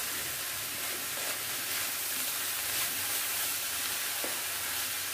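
Chopped pumpkin leaves and grated coconut sizzling in oil in a steel pan, a steady hiss with a few faint scrapes of the stirring spoon; the leaves are cooked through and wilted.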